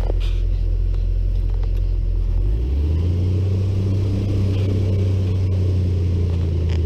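Airboat engine running steadily; its pitch steps up about two and a half seconds in and holds there.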